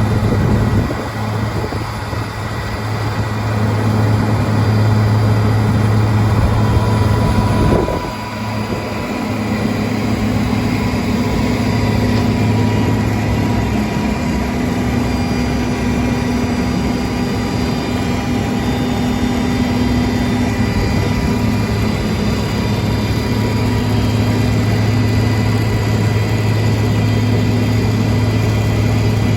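Bizon straw and hay grinder running steadily, driven by a JCB tractor, with a steady low drone and fainter high tones. The sound dips briefly about eight seconds in, then carries on unchanged.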